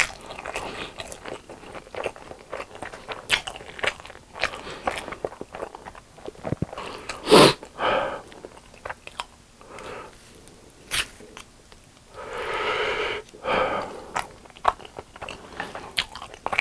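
Close-up eating sounds: biting and chewing with crunches and wet mouth clicks, one louder crunch about seven seconds in and a longer rushing sound near the end.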